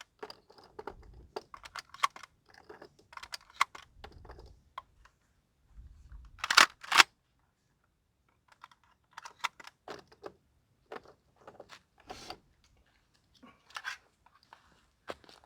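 Shotgun being loaded with birdshot shells: scattered clicks and rattles of shells and metal parts being handled, with two louder sharp clacks close together about six and a half seconds in.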